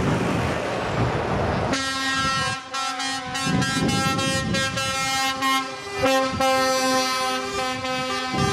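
Semi-truck air horns blowing in a convoy: several horns at different pitches sounding together in long held blasts, starting about two seconds in over a rush of truck and road noise, with brief breaks between blasts.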